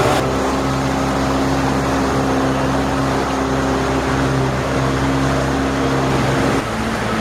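A motorboat's engine running steadily under way, with wind and water rushing past. Near the end the engine note drops slightly and gets a little quieter, as if it is throttled back.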